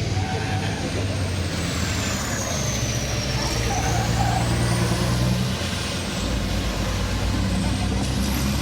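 Heavy truck engines running steadily, with their pitch shifting a little, and a faint high whine that slides down and then back up in pitch.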